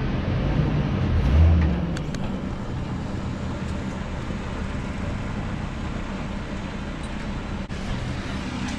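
Work truck's engine pulling under load while pushing a dead truck, swelling louder about a second in and then running steadily.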